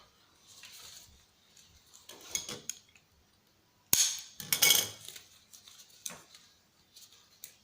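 Knocks and clatter of tools and parts being handled while a CRT TV/DVD combo is taken apart. There is a sharp knock about four seconds in, followed by a short burst of rattling, with lighter clicks before and after.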